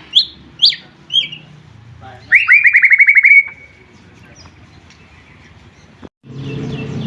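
White-rumped shama (murai batu) singing: three sharp, downward-sweeping chirps, then a loud, fast rattling trill of about ten notes lasting about a second. After a pause the sound cuts briefly near the end and a different recording starts, with a steady low hum under more chirps.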